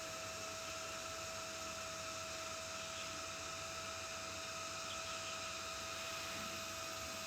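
Steady hiss with a faint, even electrical-sounding hum and no distinct events: background noise between speech.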